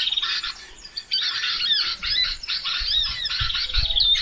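Small birds twittering: a dense run of rapid, high chirps and squeaks that sweep up and down in pitch, with short pauses. Low bumps come in over the second half.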